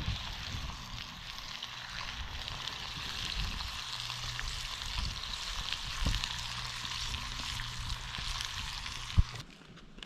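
Food sizzling in a pan over a campfire, a steady frying hiss with small pops. A single sharp knock sounds near the end, just before the sizzle cuts off.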